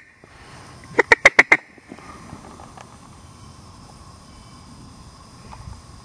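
A quick run of about six loud mallard-style quacks, about a second in, then only faint background.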